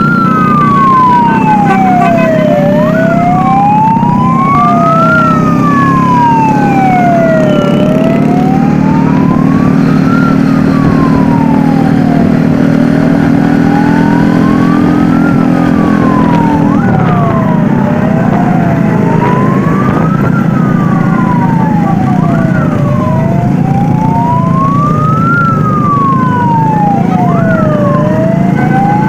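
Sirens wailing: one slow wail rising and falling about every five seconds, with other sirens sweeping more quickly over it, above a loud low engine rumble that thins out a little past halfway.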